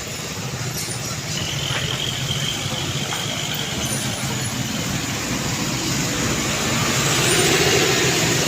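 A heavy truck's engine running in road traffic, growing louder near the end as it draws close.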